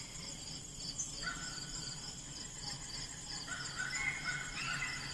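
Insects chirping in a steady high pulse. A few whistle-like calls in a lower register come in about a second in and again near the end.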